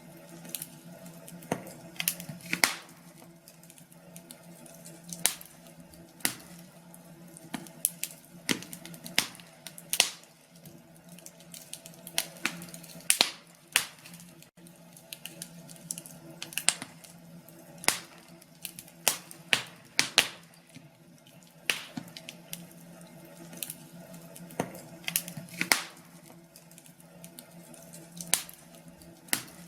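Log fire crackling, with irregular sharp pops and snaps at uneven intervals over a faint steady hum.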